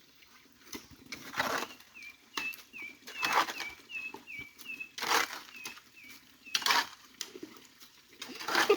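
Short rushes of noise that repeat about every two seconds as the stream is cleared. A small bird chirps a quick run of short falling notes for a few seconds in the middle.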